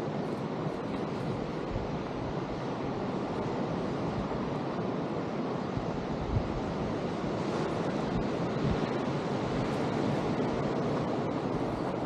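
Steady wash of ocean surf with wind buffeting the microphone, and a single brief knock about six seconds in.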